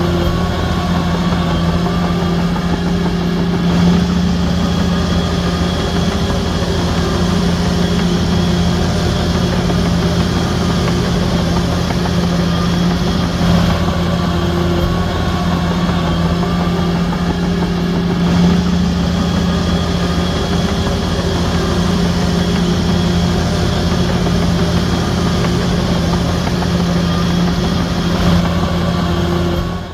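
Diesel engine of a Shantui DH17C3 crawler bulldozer running steadily, a continuous low drone that swells slightly now and then.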